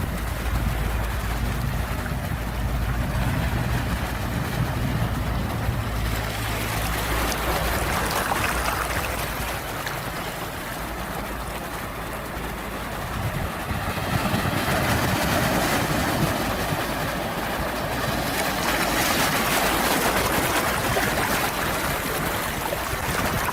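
Sea waves washing in and drawing back, with a low rumble through the first several seconds and a louder swell of surf from a little past the middle.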